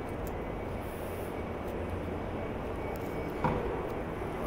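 Steady hum and rumble of a SEPTA regional rail electric train standing at a station platform, with a faint steady high tone over it. A single short knock comes about three and a half seconds in.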